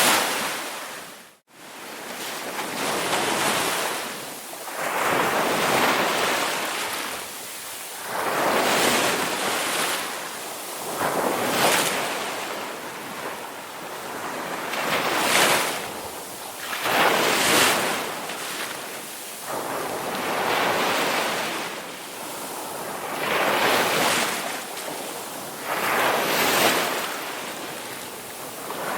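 Ocean waves washing onto a shore, surging and falling back in swells every two to three seconds. The sound cuts out briefly about a second and a half in.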